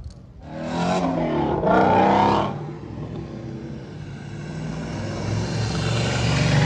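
Car engine revved twice in quick succession, then a steady engine note that grows louder toward the end as a car draws closer.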